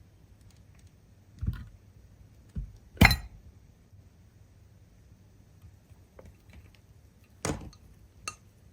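Five sharp clicks and knocks of small hard objects, spaced irregularly, the loudest about three seconds in.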